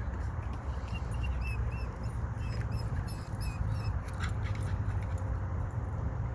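Short high chirping bird calls, repeated two or three a second for a few seconds, over a steady low rumble.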